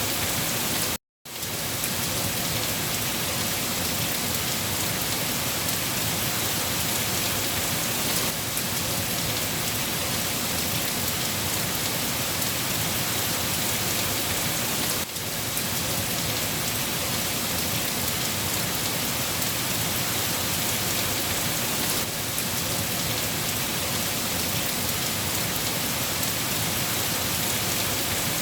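Steady rain falling, a dense even hiss. About a second in, the sound drops out to silence for a split second and then resumes.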